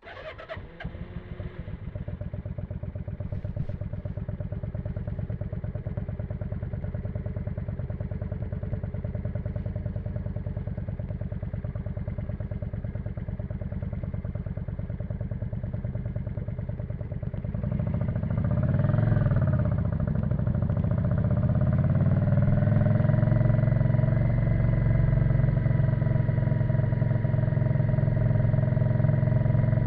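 1991 Yamaha XV535 Virago's 535 cc V-twin engine with a custom exhaust, starting up and settling into a steady, pulsing idle. About eighteen seconds in it is revved once, rising and falling, and from about twenty-two seconds it runs louder and steadier at higher revs.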